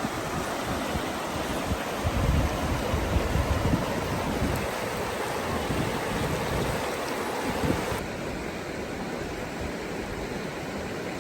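Steady rushing of flowing river water, with wind buffeting the microphone in gusts for a few seconds in the middle.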